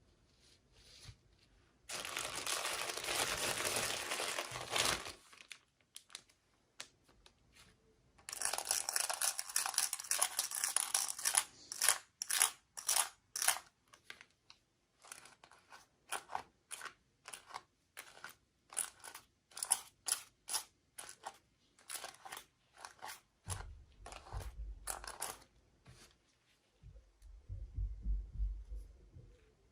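Toy packaging being torn open and crinkled by hand. There are two longer tearing, rustling pulls, then a long run of short crackles and crinkles with a few soft low thumps near the end.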